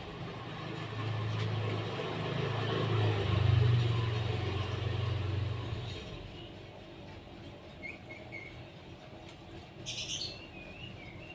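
A motor vehicle passing by, its engine hum swelling and then fading away about six seconds in. Small birds then chirp in short, high notes, with one louder call about ten seconds in.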